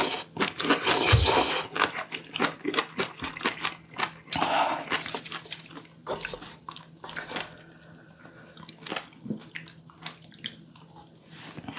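Close-miked eating sounds: chewing and slurping, with short clicks of utensils against dishes. The sounds are busier in the first half and thin out after about six seconds.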